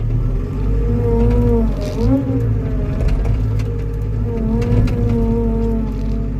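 Skid steer running hard under load as it pushes against a tree: a steady low engine drone with a pitched whine over it that swells and bends up and down several times.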